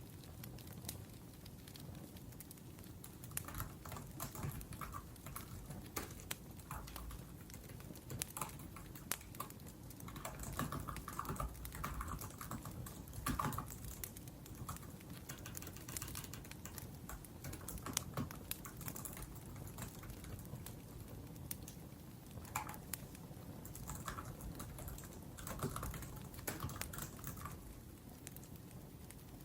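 Typing on a laptop keyboard in irregular runs of key clicks with pauses between them, over the low steady crackle of a wood fire.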